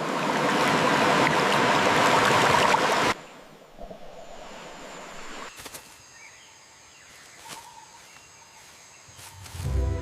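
Loud, steady rushing noise that stops abruptly about three seconds in, followed by a much quieter stretch with a few faint clicks.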